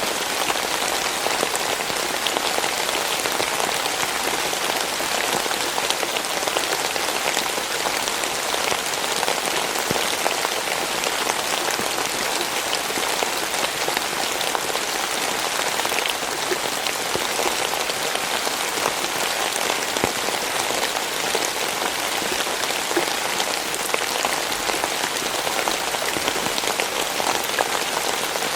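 Steady rain falling, a dense even patter of many small drop taps that keeps up without a break.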